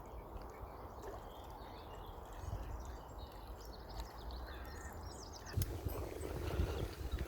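Low wind and riding noise from a bicycle ride, with birds chirping in the background. About five and a half seconds in, a louder rough rumbling noise sets in.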